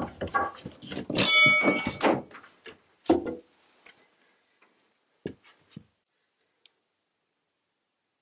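Wooden knocks and clatter in a workshop, with a short metallic ring about a second in. A few scattered thumps follow before it falls quiet.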